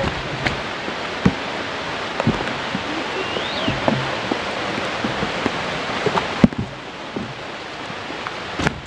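Steady rain hiss with scattered small knocks and taps. The hiss drops abruptly about six and a half seconds in.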